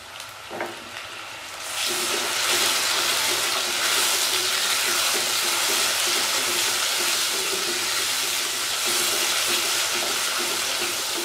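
Chopped tomatoes and onions sizzling in hot oil in a clay karahi as they are stirred with a wooden spoon; the sizzle rises sharply about two seconds in and then holds steady.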